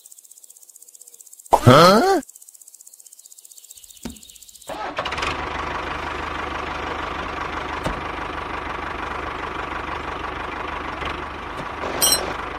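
A short rising, whistle-like sound effect about two seconds in. From about five seconds on comes the steady whirr of a toy tractor's small DC gear motor running.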